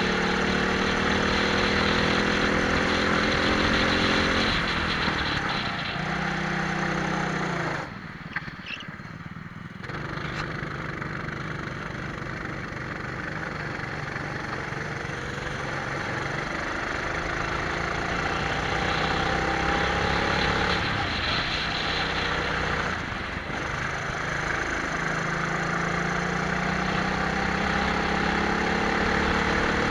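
Twin-engine Prokart's engines heard onboard, revving up with rising pitch down the straights and dropping off at each lift for a corner, four or five times. Around the middle there is a brief quieter spell off the throttle before the engines pull again.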